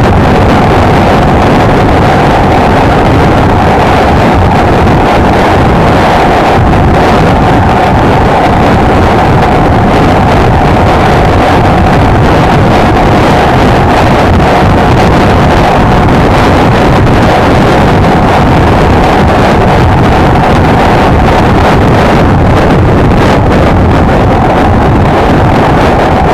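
Honda XLR125R motorcycle's single-cylinder engine running at a steady cruising speed, heard from on board, with heavy wind noise on the microphone.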